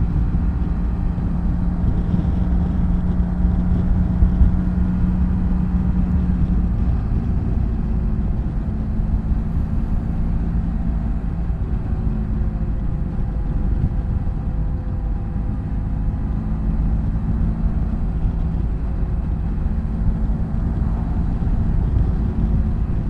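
BMW F800GS motorcycle's parallel-twin engine running steadily on the move under heavy wind and road rumble. Its engine note shifts about seven seconds in.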